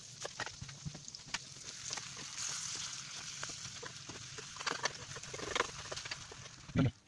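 Eggs and beans frying in oil in a pan, sizzling, with a spoon scraping and clicking against the pan as the food is stirred. A louder knock near the end.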